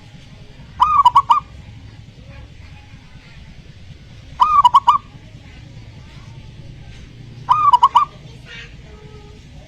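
Zebra dove (perkutut) singing its cooing song, three short phrases about three seconds apart. Each phrase is a rising note followed by a quick run of warbling notes, used as a lure call to prompt other doves to sing.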